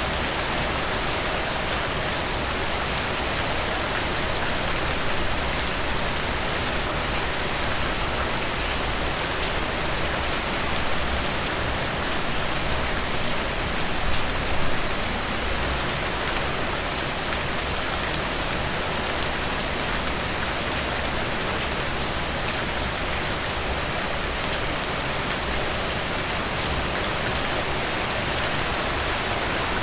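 Heavy rain falling steadily, a dense hiss of drops pattering on surfaces, swelling slightly a couple of times.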